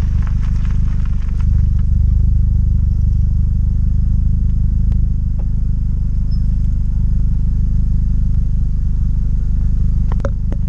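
Volkswagen Golf GTI Mk4 with an aftermarket cat-back exhaust, its engine idling steadily with a deep, even exhaust note. A couple of sharp clicks come near the end.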